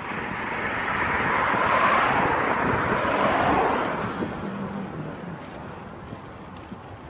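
A car passing by, its tyre and road noise swelling to a peak about two to three seconds in and then fading away.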